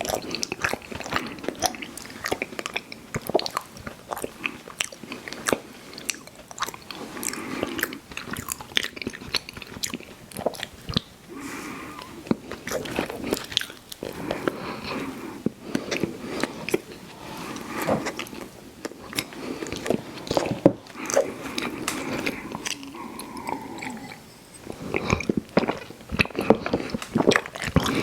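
A person chewing chewy fruit candy close to an ASMR microphone, with bites and a dense, irregular run of quick sticky mouth clicks.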